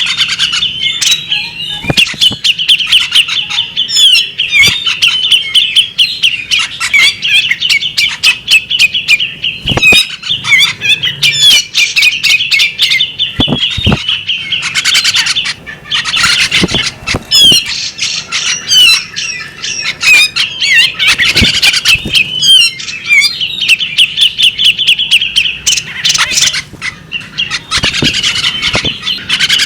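Female magpie-robin calling without a break: fast chattering runs of high chirps mixed with sharp, clipped notes.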